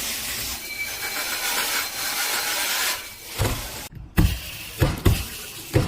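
Water running steadily from a waterfall-style kitchen sink faucet, then about five dull knocks in the last two seconds or so.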